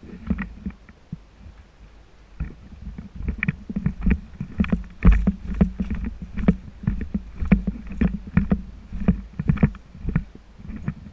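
Irregular knocks and thuds, about two a second, over a low rumble close to the microphone.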